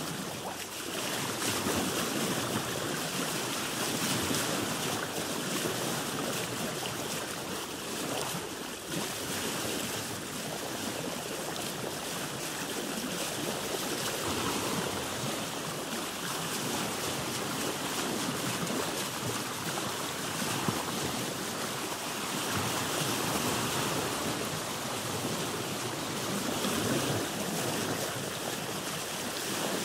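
Sea water sloshing and lapping against a boat's hull, a steady rushing wash that gently swells and eases.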